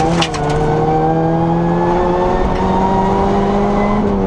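Rally car engine heard from inside the cabin, pulling hard through one gear with its pitch rising slowly as the car accelerates. A brief dip and a few sharp clicks come right at the start.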